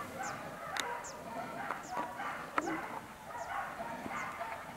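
Birds calling: a thin, high note falling in pitch, repeated about every three-quarters of a second, over a busier chatter of other birds, with a couple of sharp clicks.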